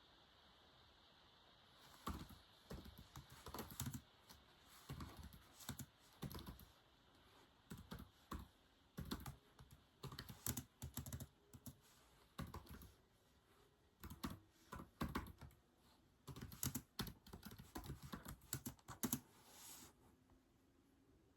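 Typing on a keyboard: irregular runs of key clicks in short bursts, starting about two seconds in and stopping about a second before the end.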